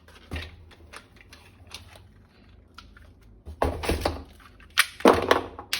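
Plastic toy assault rifle being handled: a string of small clicks and taps, then two louder bursts of clattering plastic about three and a half and five seconds in.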